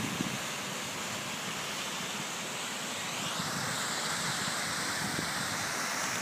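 Man-made waterfalls pouring over granite in a steady rush of water, its tone shifting slightly about halfway through.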